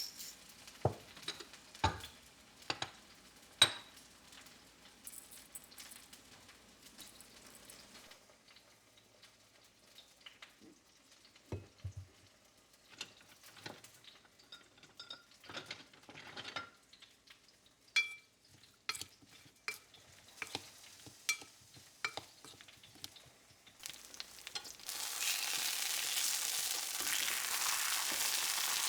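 Kitchen handling sounds: scattered light clinks, taps and knocks of dishes and utensils with quiet gaps between them. About 25 seconds in, a steady hiss starts and carries on.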